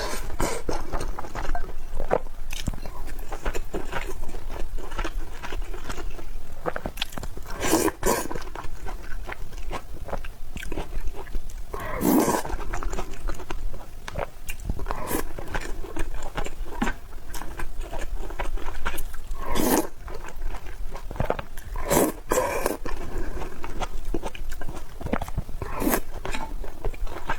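Someone eating and chewing food up close, with a steady run of irregular crunchy clicks and wet mouth smacks and a few louder bites.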